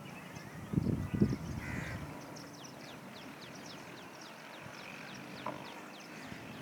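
Small birds chirping: a quick run of short, high, falling notes, about three a second. A couple of loud low thumps or rustles come about a second in.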